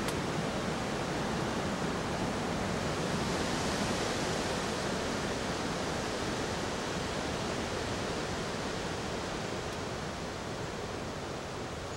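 Steady rushing hiss with no distinct voice or call in it, swelling slightly a few seconds in, with one faint click near the end.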